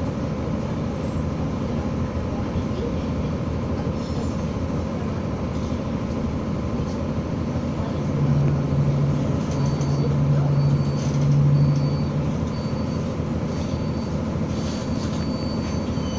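Materfer diesel railcar running on the track, a steady rumble with a louder low drone from about eight to twelve seconds in. Faint short high beeps repeat through the second half.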